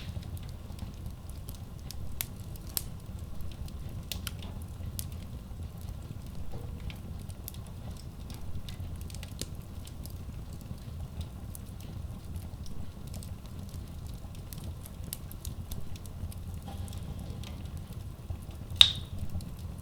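Wood logs burning in a Kratki Koza K6 stove-fireplace: a steady low rumble of flame with frequent sharp crackles, and one loud pop about a second before the end.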